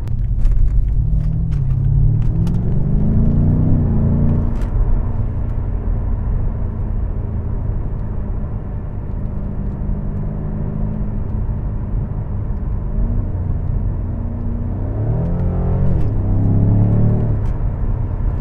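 BMW M5's V8 engine pulling on the road: its note climbs under acceleration about a second in, settles to a steady cruise, then climbs and falls again near the end.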